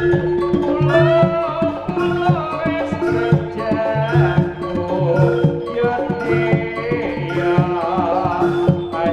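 Live Javanese jaranan ensemble music: hand drums beat a steady, busy pattern under repeated held notes from tuned percussion, with a higher melodic line that glides in pitch above them.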